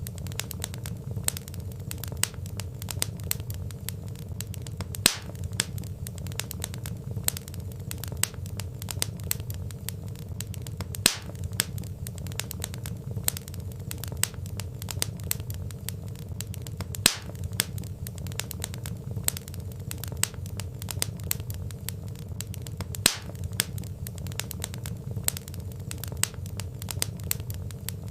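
Wood fire crackling in a fireplace: a steady low rumble of burning logs with dense irregular crackles and occasional sharper pops. A short loop, with a brief dip about every six seconds.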